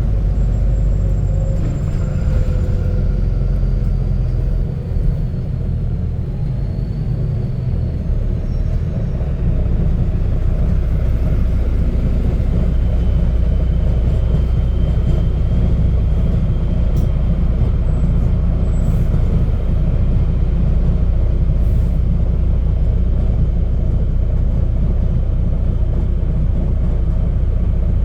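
Volvo B9TL double-decker bus's diesel engine running through a burst exhaust, heard on board as a loud, deep, steady rumble. The rumble eases for a few seconds, builds again about a third of the way in and holds, with a faint high whine over it later on.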